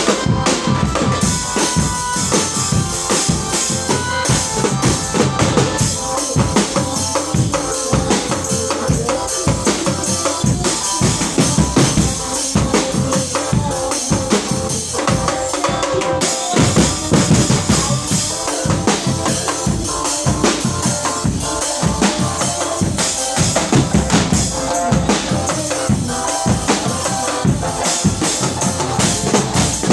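Live drum-driven music: a rapid, continuous beat of drums and bass drum, with held melody notes above it.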